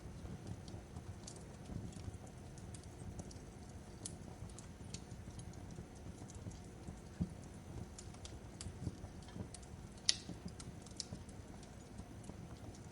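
Fireplace crackling: a low steady rumble of burning with irregular sharp pops and snaps, one louder pop about ten seconds in.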